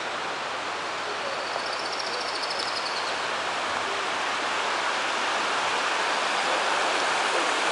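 Small waterfall: a steady rush of falling water, growing gradually louder.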